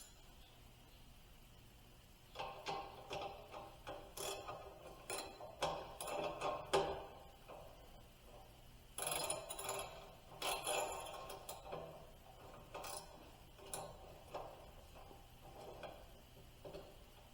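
Irregular clicks and clinks of hand work with tools on metal parts, in two spells of several seconds each with a short lull between.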